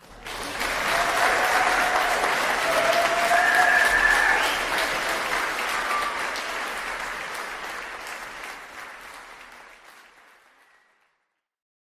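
Audience applauding at the end of a sung shanty: the clapping starts suddenly, swells to its loudest about four seconds in, then dies away by about eleven seconds.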